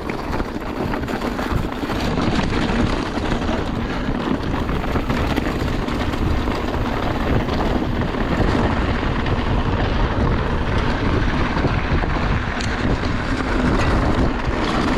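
Wind rushing over the microphone, mixed with the rattle and tyre noise of a mountain bike riding a trail. It swells as the bike picks up speed, then holds steady.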